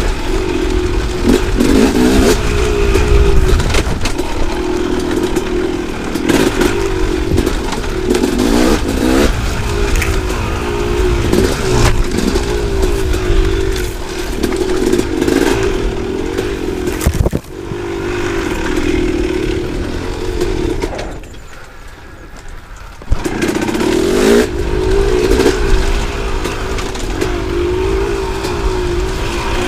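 KTM two-stroke dirt bike engine revving up and down over rough, technical trail ground, with clattering knocks and scrapes of the bike over rocks. About two-thirds of the way through, the engine drops away for a couple of seconds, then comes back in after a sharp knock.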